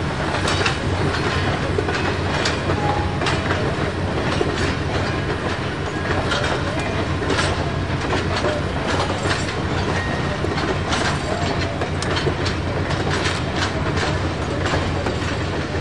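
Steam-hauled passenger train rolling past on the adjacent track, its car wheels clicking irregularly over rail joints and switches above a steady rumble of steam locomotives working.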